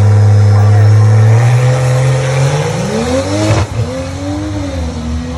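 A drag-racing car's engine held at steady revs, then accelerating hard with the pitch climbing and a sudden drop at a gear change about three and a half seconds in, after which it pulls again.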